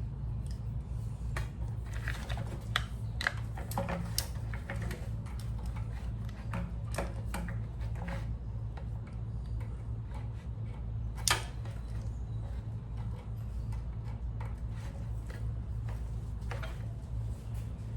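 Scattered small clicks and taps of hands working on the fuel lines and small parts of a pressure washer's engine, over a steady low hum; one sharper click about eleven seconds in.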